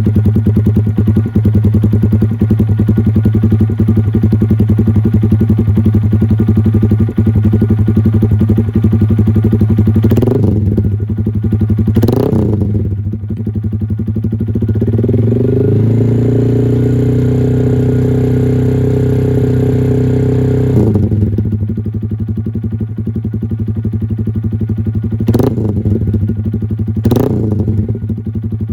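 Honda Grom JC92's single-cylinder engine running through a racing exhaust: idling steadily, blipped twice about ten seconds in, then held at higher revs for about five seconds before dropping back to idle, and blipped twice more near the end.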